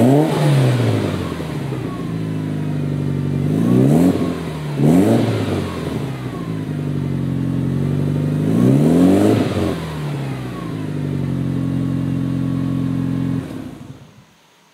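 Mitsubishi Lancer Evolution IX's turbocharged 2.0-litre four-cylinder, fitted with an AMS turboback exhaust, idling and being blipped through sharp free revs about every four to five seconds. The engine is switched off near the end, and the sound cuts out.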